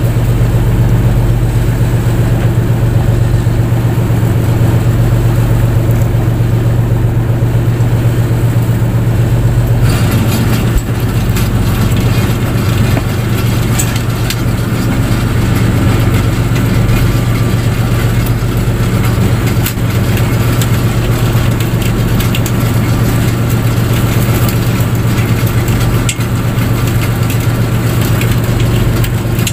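Fishing boat's engine running steadily at a constant pitch, a loud low hum. About ten seconds in, a hissing, rattling layer joins on top.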